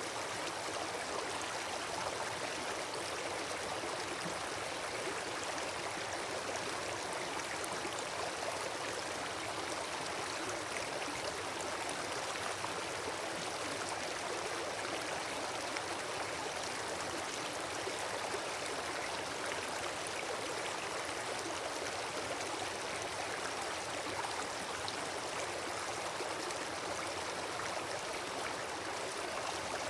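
Wood campfire burning, with a steady hiss and dense, faint crackling.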